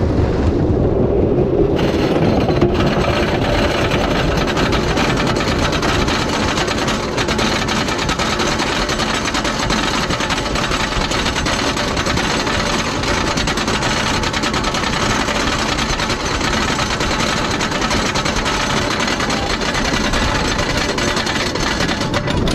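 Wooden roller coaster's lift-hill chain and anti-rollback ratchet clattering in a fast, steady rattle as the train is hauled up, starting about two seconds in.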